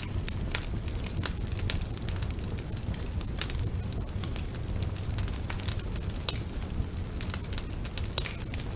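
Wood fire burning in a fireplace, crackling with frequent irregular sharp pops over a steady low rumble of the flames; two louder pops stand out about six and eight seconds in.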